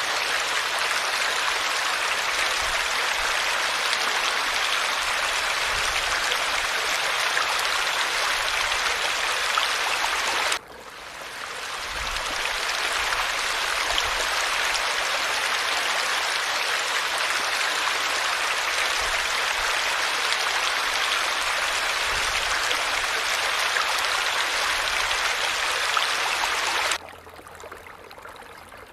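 Falling water splashing steadily. About ten seconds in it cuts out suddenly and swells back over a second or so; near the end it drops abruptly to a much quieter splashing.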